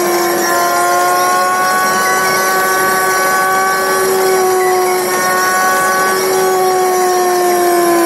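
A driving car's running noise, heard as a steady high-pitched mechanical whine whose pitch drifts slowly and sags a little near the end.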